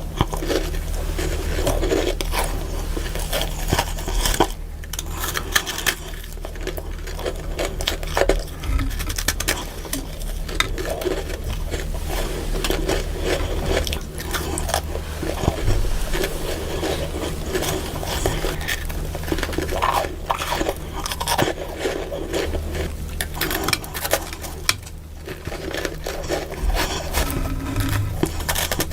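Close-up biting and chewing of freezer frost: a dense run of irregular crackly crunches with no pause.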